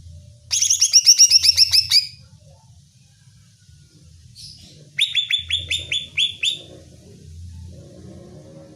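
Green leafbird (cucak ijo) calling in two rapid bursts of sharp, repeated down-slurred notes: about a dozen in the first burst, then about nine in a second burst a few seconds later. This is the provoking call (pancingan) used to rouse other cucak ijo into agitated singing. A steady low hum runs underneath.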